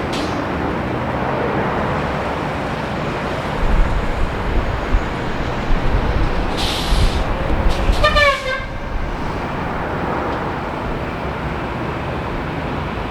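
Jet aircraft engine noise, a steady loud roar, with irregular low rumbling from about three and a half to eight seconds in and a short tone that drops sharply in pitch just after eight seconds.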